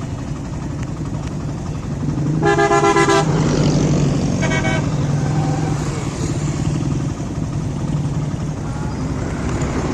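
Motorcycles running in a convoy, with a steady engine hum, and a horn honked twice: a loud blast lasting under a second about two and a half seconds in, then a shorter honk about four and a half seconds in.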